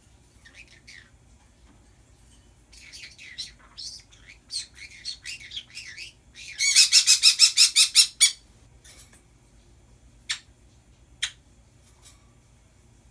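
Pet birds chattering in short mixed calls. About halfway through comes a loud run of rapid, evenly repeated screeches lasting under two seconds, followed by two short, sharp single calls.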